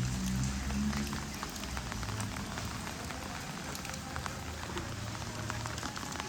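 Steady rain falling on surfaces, with scattered sharp ticks of drops through it; a low rumble fades out in the first second.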